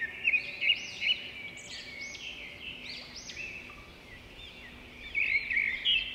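Small birds chirping: many quick, repeated rising-and-falling calls, busiest at the start and again near the end.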